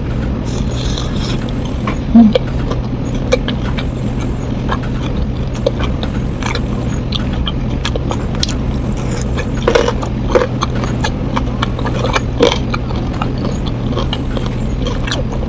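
Close-up chewing of crispy battered fried food dipped in chili sauce: irregular crunches and wet mouth clicks, a few of them louder, over a steady low hum.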